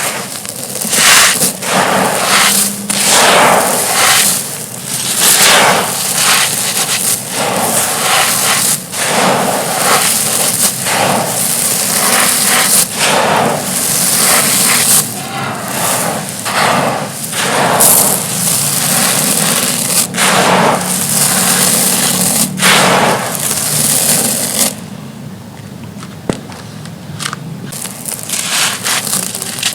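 Thin, dry, dusty stone-like slabs being crushed and crumbled: a run of gritty, crackling crunches one after another. About 25 seconds in it drops to a softer, quieter rustle of crumbs.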